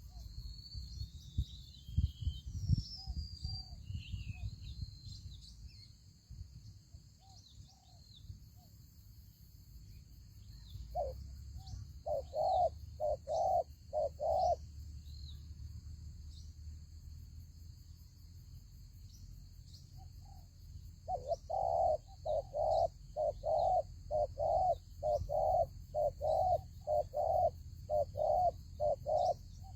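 Spotted dove cooing in runs of short, low notes: a short run of about five notes around the middle, then a longer run of about two notes a second near the end. Small birds chirp briefly near the start over a steady high hiss.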